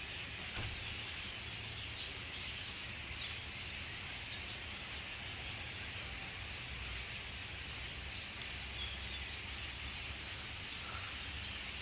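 A huge flock of birds of one kind chattering all at once in the trees: a dense, unbroken din of overlapping chirps, over a low rumble.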